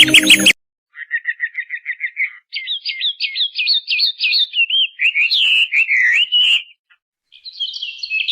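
A songbird singing: a fast trill of short notes, then a run of louder, quick down-slurred whistles and wavering phrases, a brief pause, and another burst of song near the end.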